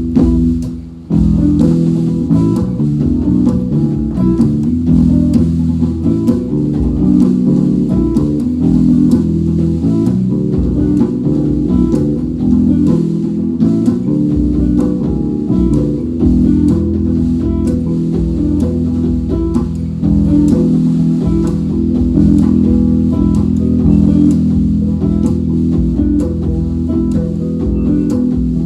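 Live rock band playing an instrumental passage: guitar and bass guitar over a steady drum beat, without vocals. The music dips briefly about a second in, then carries on.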